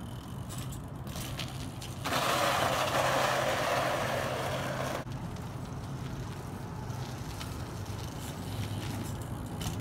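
A car engine idling with a steady low hum. About two seconds in, a loud rushing noise starts abruptly and cuts off suddenly about three seconds later.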